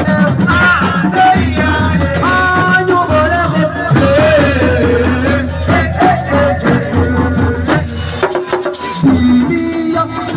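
Live assiko band music: singing over fast, steady percussion with a rattling shaker.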